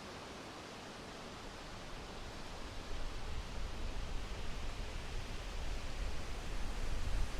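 Winter wind blowing with a steady hiss. A low rumbling gust builds from about two seconds in and grows louder in uneven surges.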